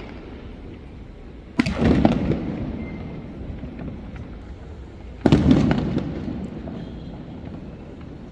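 Two firework shells bursting, one about a second and a half in and one about five seconds in, each a sudden bang whose echo dies away over two to three seconds.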